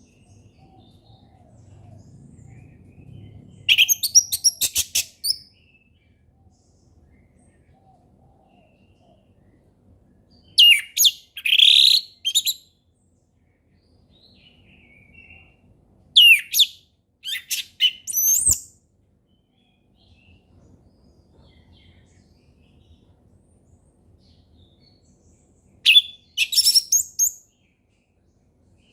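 Orange-headed thrush singing its 'ngeplong' song: four short bursts of high, rapid phrases with pauses of several seconds between them. A single click sounds about eighteen seconds in.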